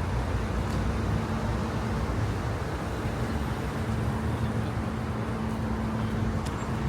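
Waterfront city ambience: a steady low rumble of engine and traffic noise with a constant low hum running through it, and no sudden events.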